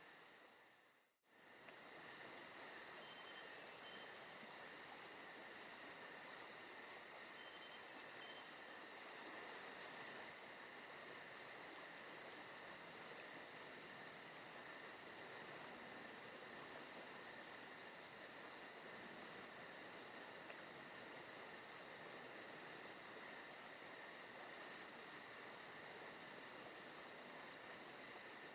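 Faint forest night ambience of crickets and other insects chirping steadily in a fast, even pulse, with a brief dip almost to silence about a second in.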